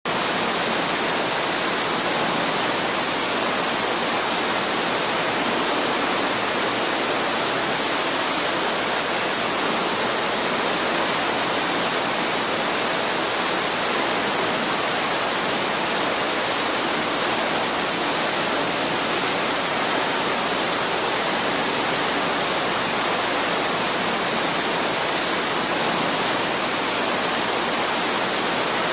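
Heavy rainfall, a steady, even hiss with no separate drops or breaks.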